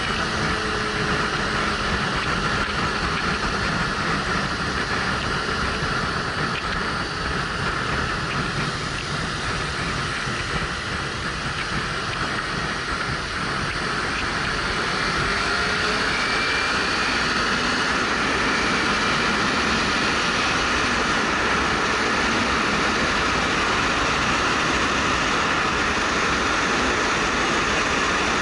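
Motorcycle riding along: wind rushing over a helmet-mounted microphone, with the Suzuki GW250's parallel-twin engine running underneath. It gets a little louder about halfway through.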